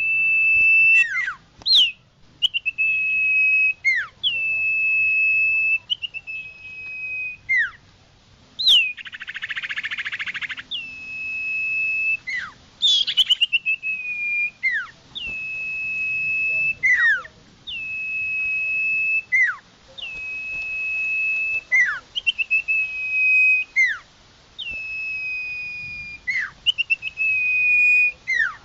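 Common iora (cipoh) lure call: long, steady high whistles, each ending in a sharp downward slur, repeated about every two seconds. A short harsh rattle comes about nine seconds in, and a quick run of falling notes follows a few seconds later.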